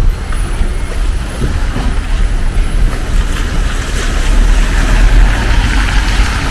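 City street ambience: a steady, loud low rumble of traffic and wind on the microphone, with a thin high whine during the first three seconds or so.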